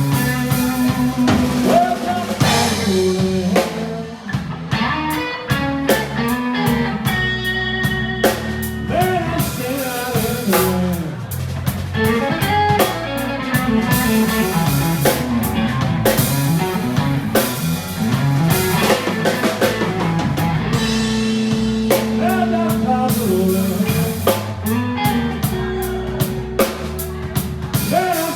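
Blues band playing: electric guitar lead with bending notes over a drum kit.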